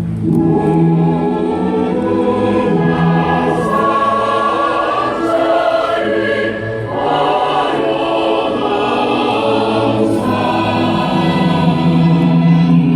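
Choral singing with musical accompaniment: many voices holding sustained notes that change every second or so.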